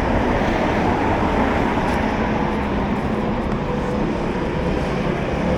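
Steady rumble of passing road traffic, an even wash of noise with no distinct events.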